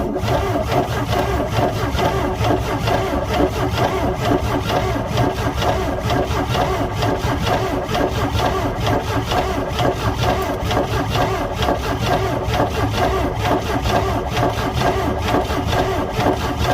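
Boat engine, long idle, cranking over steadily on its starter with starter fluid in it, with an even, fast rasping rhythm; it does not settle into running.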